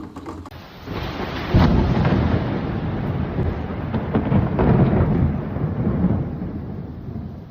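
Thunder rolling in a long rumble over heavy rain. It breaks in sharply about a second and a half in, swells again around five seconds, then fades near the end.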